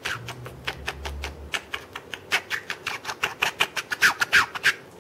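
Small parrot making rapid clicking sounds mixed with short falling chirps, in a beatbox-like rhythm, louder toward the end.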